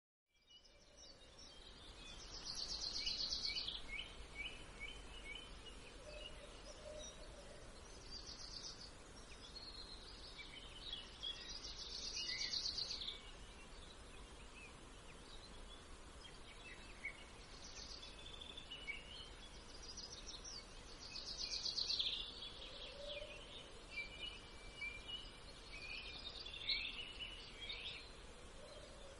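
Small songbirds singing and chirping, with bursts of rapid high trills that come back about every ten seconds, over a faint steady background hiss.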